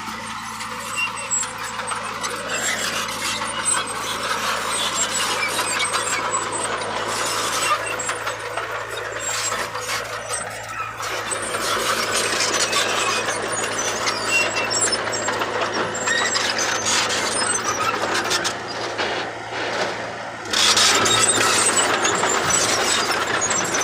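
Bulldozer working soil: a steady engine under a dense grinding, clattering noise from the machine working, with many sharp clanks and squeaks. It gets louder about twenty seconds in.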